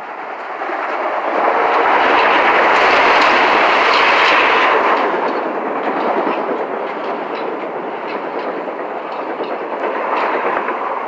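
Metro-North electric commuter train running past the platform: a rush of wheel and rail noise that swells to its loudest about two to five seconds in, then a steadier rolling sound with clicking of wheels over the rail joints.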